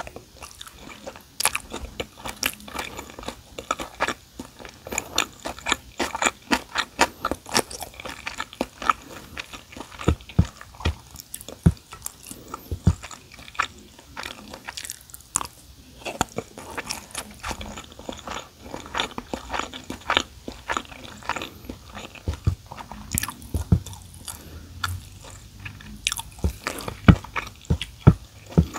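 Chewing a mouthful of kimchi fried rice, a dense run of quick mouth clicks and smacks, with a few low knocks in between.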